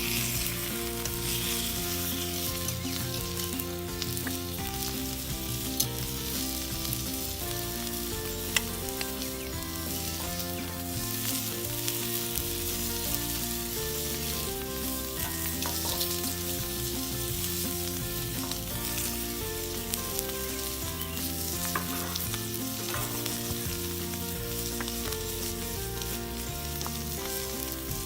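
Thick bison steak sizzling steadily in a campfire frying pan, with a few faint crackles and clicks.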